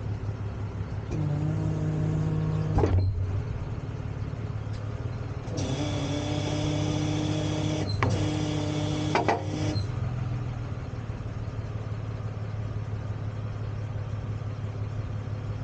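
Tow truck engine idling steadily. A pitched motor whine starts about a second in and stops with a click a little before three seconds, then runs again from about six to ten seconds, broken by a couple of clicks.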